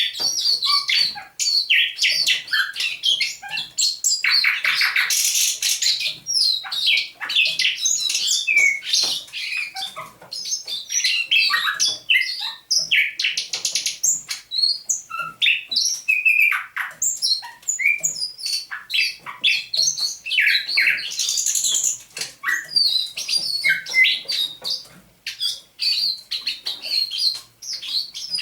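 Thrush nightingale singing: a loud, varied song of short phrases built from rapid clicking rattles, fast trills and whistled notes, separated by brief pauses.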